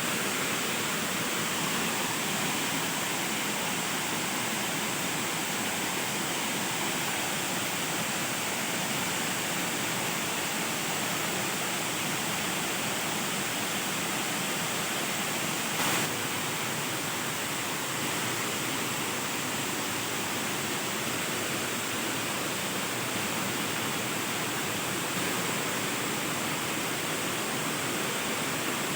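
Steady, even rush of a waterfall, with one brief click about halfway through.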